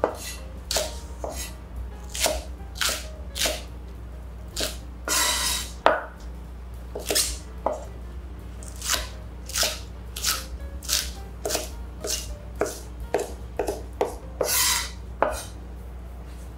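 Chinese cleaver chopping green onions into short segments on a wooden cutting board: irregular sharp knocks of the blade through the stalks onto the board, about one or two a second, with a couple of longer, noisier strokes.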